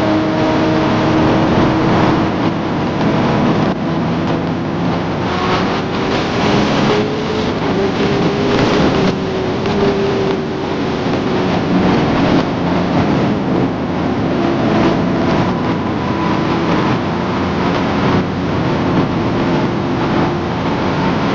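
Kawasaki ZX-10R's inline-four engine running under way at a steady cruise, with heavy wind rush over the microphone. The engine note climbs slowly over the first several seconds, then settles lower and stays fairly even.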